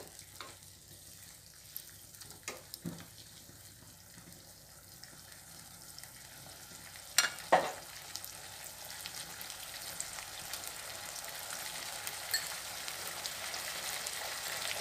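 Onion and capsicum in sauce sizzling in a nonstick wok, the sizzle growing steadily louder. A wooden spatula knocks against the pan a few times in the first three seconds, and there is a sharp double knock about seven and a half seconds in.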